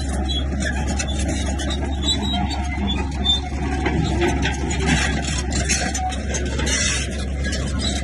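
Crawler bulldozer's diesel engine running steadily under load.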